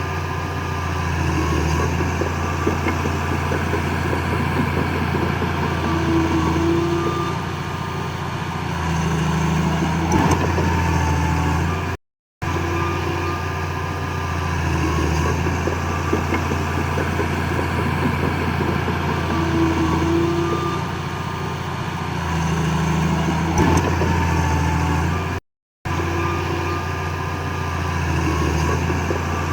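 Heavy earthmoving machine's diesel engine running steadily, with a short high squeal and a knock about ten seconds in and again near the end. The sound cuts out briefly twice, and the same stretch repeats.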